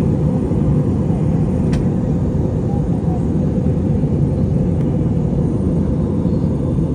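Steady low rumble of a moving vehicle, unbroken and even throughout.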